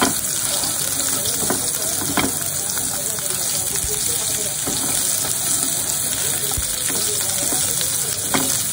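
Drumstick (moringa) pod pieces sizzling steadily in hot tempered oil in a nonstick frying pan, stirred with a spatula that scrapes and knocks against the pan a few times.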